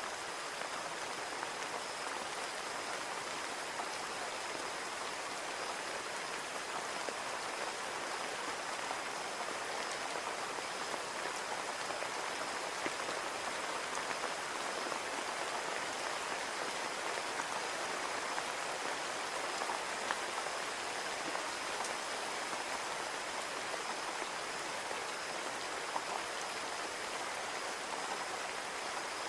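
Steady rain on a window pane: an even patter with the odd louder drop tapping on the glass.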